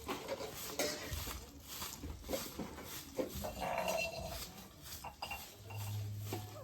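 Pet parrot making short calls and chatter among small clicking noises, with one longer call about halfway through. A low steady hum comes in near the end.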